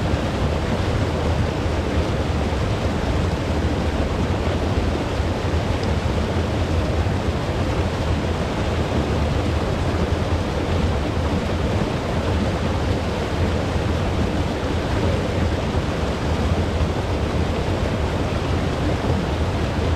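Steady, unbroken rushing of moving water with a deep rumble underneath.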